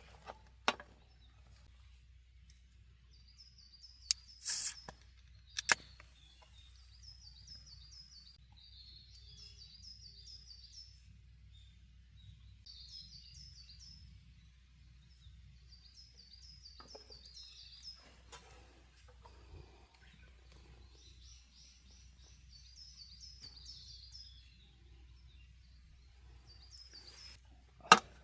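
Wild birds singing in repeated short phrases of quick high notes. A few sharp clicks or knocks stand out, near the start and at the very end, with a brief scrape about four and a half seconds in.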